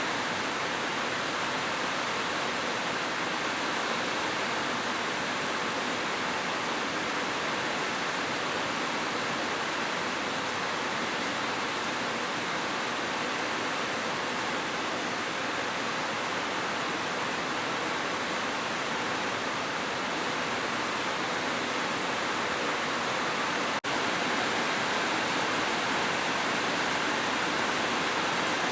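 Heavy rain falling in a steady, even hiss, with one very brief dip in level about three-quarters of the way through.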